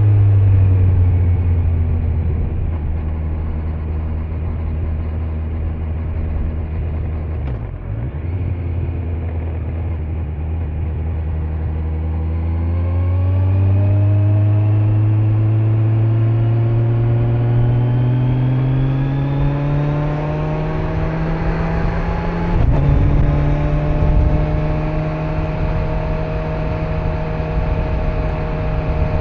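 Kawasaki Z900's inline-four engine on the road with stock exhaust. The revs fall over the first several seconds, hold steady, then climb steadily for about ten seconds. A quick gear change comes near the end, and the engine settles at a steady cruise.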